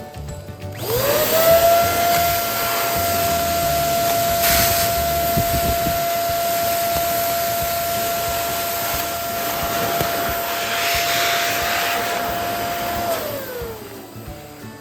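Electric balloon pump inflating a balloon: the motor spins up about a second in, runs steadily with a rushing of air for around twelve seconds, then winds down as it is switched off.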